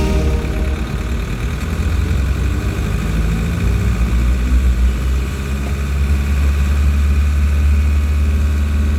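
A vehicle on the move: a steady low engine and road rumble.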